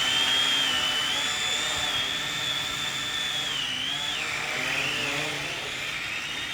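Car tyres squealing in a long, wavering high-pitched screech that drops in pitch about four seconds in, over the engine running.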